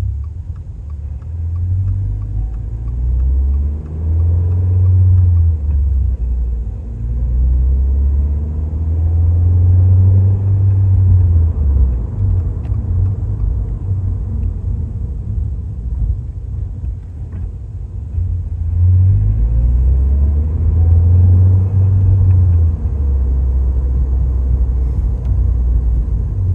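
2023 Toyota GR86's 2.4-litre flat-four engine heard through a Fujitsubo A-R catback exhaust while driving, with a deep, low exhaust note. The engine climbs in pitch under acceleration and drops back several times, as if pulling through the gears.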